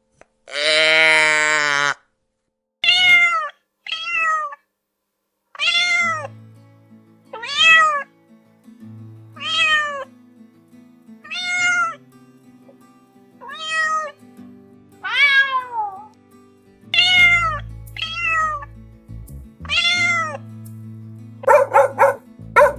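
Domestic cat meowing again and again: about eleven short meows, each rising then falling in pitch, roughly every two seconds. Before them comes a long, lower animal call lasting about two seconds. Near the end a quick run of dog barks begins.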